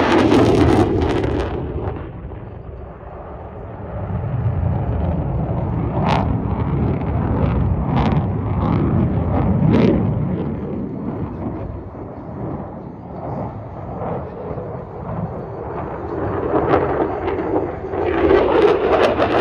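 Jet fighter roaring past low overhead in an air-show pass. It is loudest in the first two seconds, drops to a lower rumble as it moves off, and builds again near the end as the jet comes back around.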